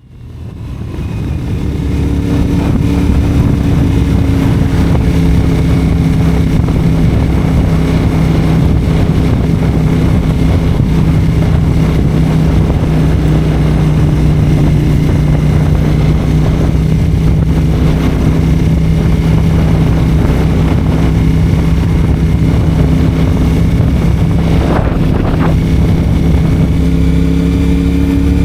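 CFMoto 450SR's parallel-twin engine running steadily through a Yoshimura AT2 slip-on exhaust, fading in at the start and rising in pitch near the end as it revs up.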